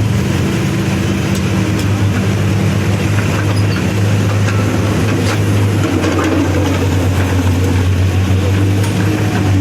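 CASE backhoe loader's diesel engine running steadily with a low, even hum, with a few faint clicks over it.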